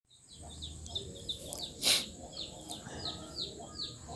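Small birds chirping in the background, a quick run of short falling chirps several times a second, over a low steady hum. A sharp click about two seconds in and another near the end.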